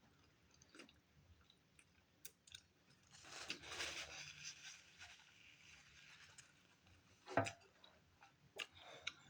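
Close-miked chewing of a taco with wet mouth clicks, and a stretch of crunching about three seconds in.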